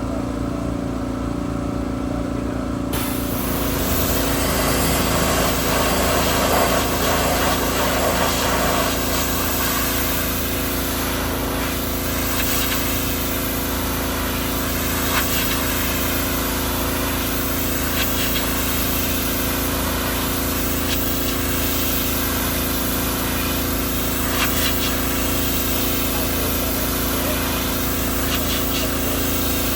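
Gas pressure washer engine running steadily, with the high-pressure water spray hissing against thick awning fabric from about three seconds in.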